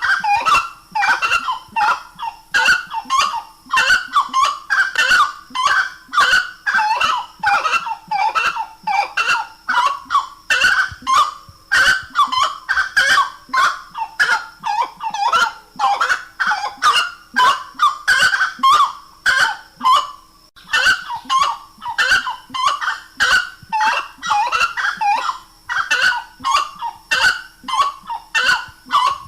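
Grey-cowled wood rail (saracura-três-potes) singing: loud, rapidly repeated honking calls follow one another almost without a break, with a brief pause about twenty seconds in.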